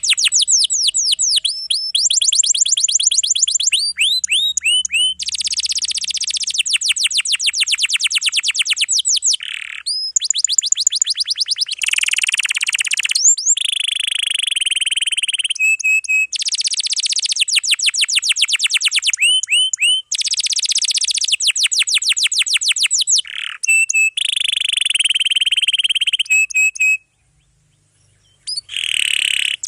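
Domestic canary singing a long, dense song of fast trills and rolls, with rapid runs of repeated notes and quick sweeping whistles. The song breaks off briefly near the end, then starts again.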